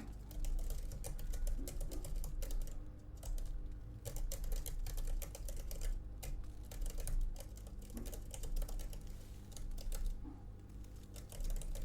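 Typing on a computer keyboard: quick, irregular runs of key clicks with short pauses, over a low steady hum.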